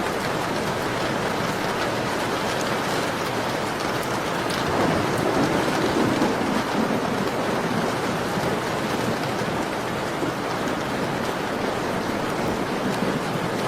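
Steady heavy rain falling on a surface, with faint crackling from a wood fire. About five seconds in, a low swell rises in the rain sound for a couple of seconds.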